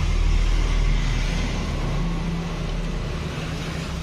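Car engine idling with a steady low hum, fading a little toward the end.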